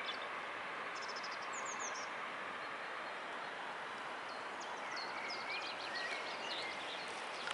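Outdoor ambience: a steady, even hiss, with small birds chirping a few times, high and short, around one to two seconds in and again in the last couple of seconds.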